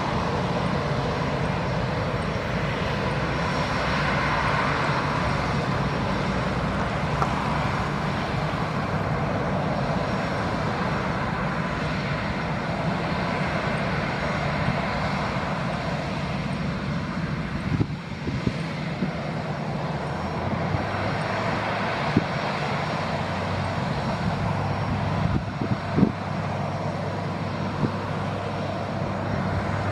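Airbus A319 jet engines running at takeoff power as the airliner departs, a steady jet roar with a low rumble. A couple of brief knocks sound about two-thirds of the way through and near the end.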